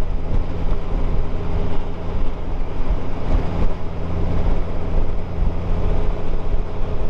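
Motorcycle cruising at a steady speed: the engine runs as a steady low hum under rushing wind noise, picked up by a helmet-mounted camera.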